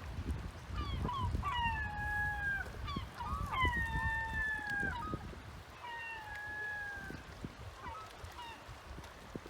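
Seagulls calling: about three long, drawn-out cries, each falling slightly in pitch, with short sharp calls between them, over a low rumble.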